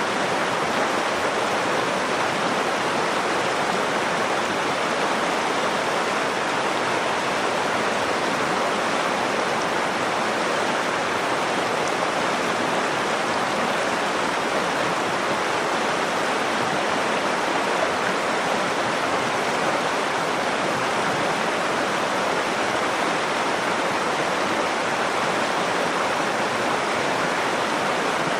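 River water flowing and rushing over rocks in a steady, unbroken wash of sound.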